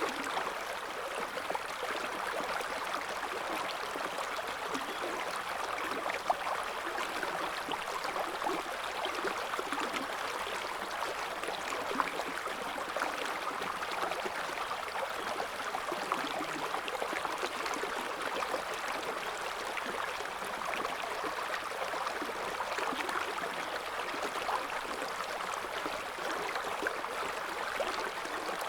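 River water flowing in a gentle current: a steady babbling rush with many small splashes. A few louder splashes stand out, one about six seconds in and one about twelve seconds in.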